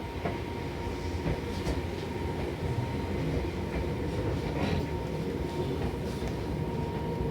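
Seibu New 2000 series electric train running, heard from inside the car: a steady rumble with a thin motor whine and scattered clicks of the wheels over rail joints.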